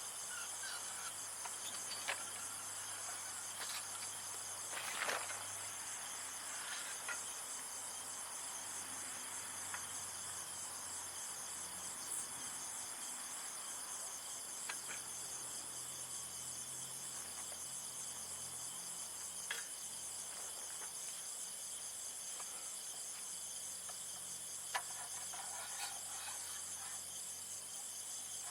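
A steady chorus of insects shrilling in several high, pulsing bands, with a few scattered light clicks and taps over it.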